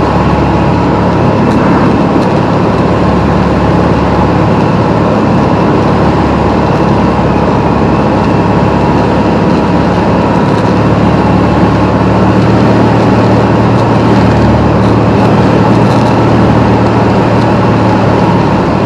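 Piper Comanche 250's six-cylinder Lycoming O-540 engine and propeller droning steadily, heard loud inside the cockpit.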